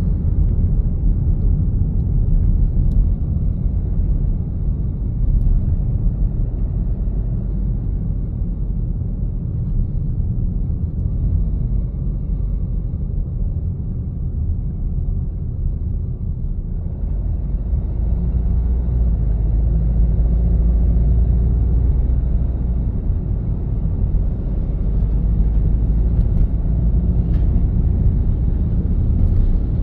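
Steady low rumble of road traffic: vehicle engine and tyre noise on the road. It eases slightly around the middle, then grows louder a little past halfway, with an engine note that rises and falls.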